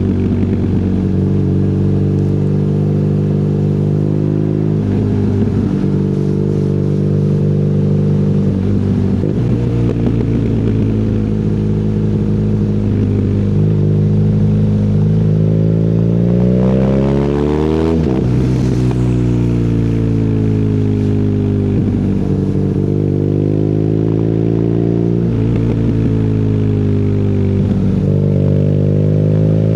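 BMW R nineT's air/oil-cooled boxer twin with an Akrapovic exhaust, pulling through the gears while riding: the engine note repeatedly rises and then drops at each gear change. About 18 seconds in it revs up steeply and falls away sharply, and it climbs again near the end.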